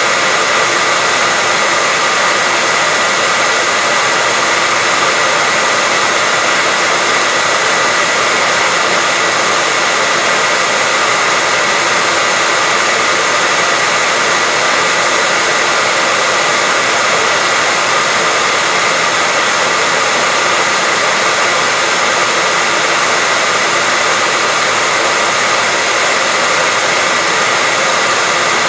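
Hair dryer running steadily, a constant rush of air with a thin high whine over it.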